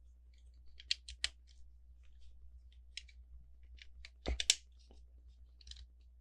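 Plastic LEGO pieces clicking as they are handled and fitted together: a few scattered sharp clicks, with the loudest quick cluster a little past four seconds in.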